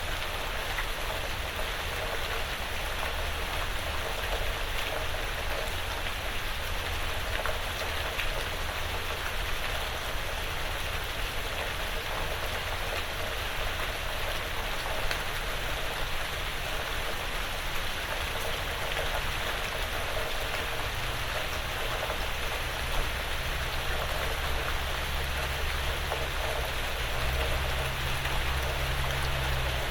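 Steady light rain pattering on a porch roof and the surrounding woods, with fine scattered drop ticks. A low rumble underneath swells in the last few seconds.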